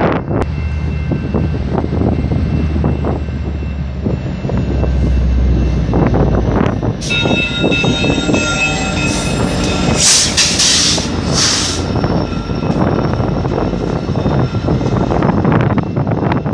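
Commuter train running past at close range: a continuous low rumble of the train, with high steady squealing tones from about seven seconds in and loud hissing around ten to twelve seconds in.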